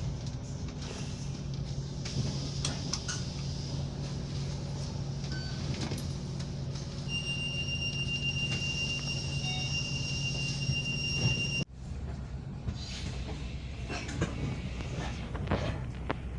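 Steady low running hum inside a moving public-transport vehicle, with a few faint clicks and rattles. About seven seconds in, a steady high electronic tone sounds for around four seconds; it stops together with everything else in an abrupt cut.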